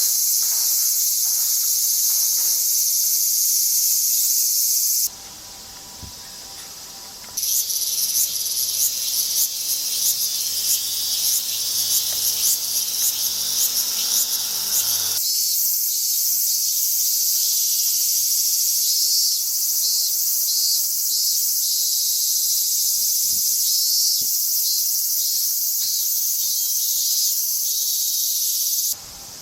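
Cicadas singing in a loud, high-pitched summer chorus. The chorus drops back for a couple of seconds about five seconds in, returns with a rapid pulsing, then holds a steady drone until it falls away near the end.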